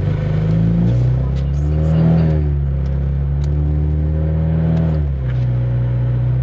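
Car engine heard from inside the cabin, rising in pitch as the car accelerates about a second in, holding steady, then dropping back a little after five seconds as it eases off.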